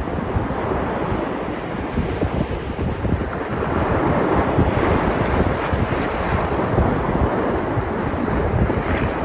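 Sea surf washing continuously onto the shore, a steady rushing of breaking waves that swells a little about a third of the way in. Wind buffets the microphone with a low rumble underneath.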